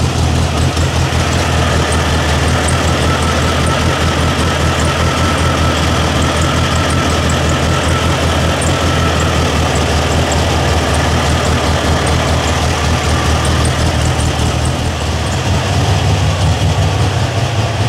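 Turbocharged air-cooled VW Beetle flat-four engine idling steadily.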